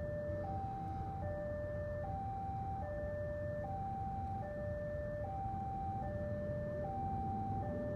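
Railway level-crossing warning alarm sounding a steady two-tone signal, a lower and a higher tone alternating, each held just under a second, over a low rumble of waiting road traffic. The alarm means the crossing is closed for an approaching train.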